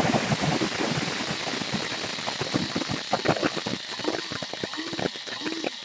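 KRUPS F203 electric blade coffee grinder running, its stainless-steel blades chopping coffee beans for a medium grind. Beans rattle and click against the bowl and lid, and the noise grows quieter and the rattling thins out as the beans break down.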